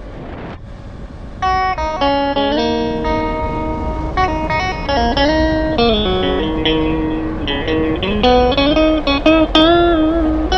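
Background music: a guitar playing a melody of plucked single notes with slides and bends in pitch, coming in about a second and a half in over a steady hiss.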